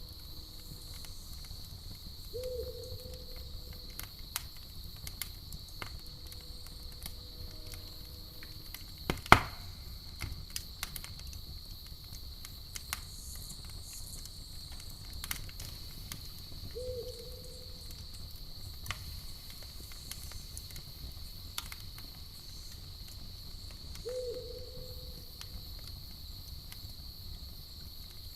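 Campfire crackling with scattered sharp pops, one much louder pop about a third of the way in, over a steady chorus of crickets. An owl hoots briefly three times.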